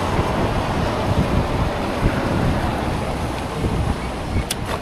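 Wind buffeting the microphone during a ride in the rain, over a steady hiss, with one sharp click near the end.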